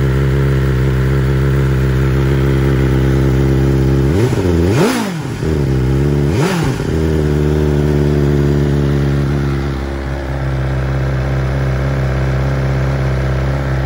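2021 BMW S1000XR's inline-four engine, running the Brentuning Stage 1 ECU flash, idling steadily and blipped twice about four and six and a half seconds in, each rev rising and falling quickly before settling back to idle.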